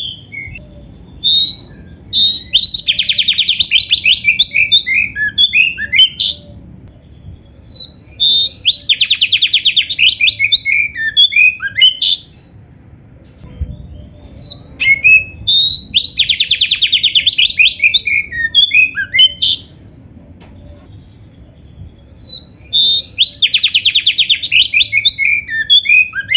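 Oriental magpie-robin (kacer) singing loudly in four phrases a couple of seconds apart. Each phrase opens with a fast run of rapid repeated notes and breaks into varied whistles and chips: the bird's full song with mimicked 'isian' notes.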